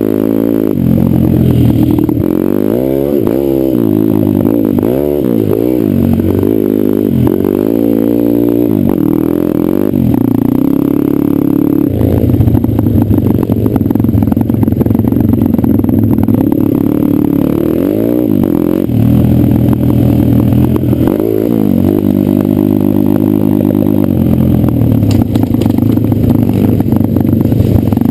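Pit bike's single-cylinder engine being ridden hard, revving up and falling back over and over, with a few steadier stretches held at high revs.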